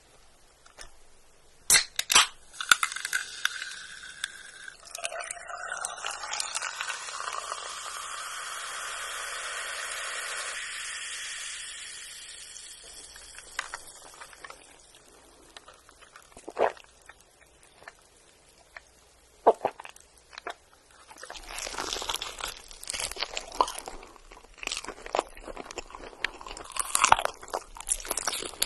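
Close-miked crunchy bites and chewing of fried chicken, densest in the last seven seconds. Earlier there is a steady hiss lasting several seconds, with a few sharp clicks before and after it.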